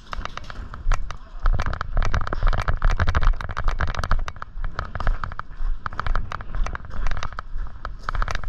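Airsoft guns firing: a run of sharp, irregular pops and clicks, starting about a second in, over a rumbling low noise.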